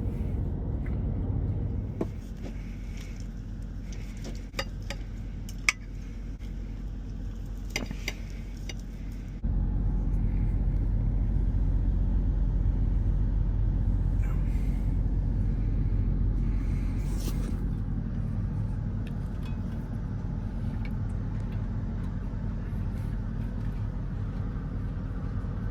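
A semi-truck's idling engine gives a steady low hum in the cab; it gets louder about a third of the way in. Scattered clicks of a fork and knife on a plate sound over it.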